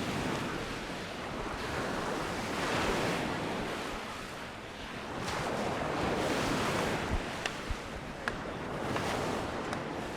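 Sea waves washing onto the beach, the rush swelling and ebbing every few seconds, with wind on the microphone and a few sharp clicks in the second half.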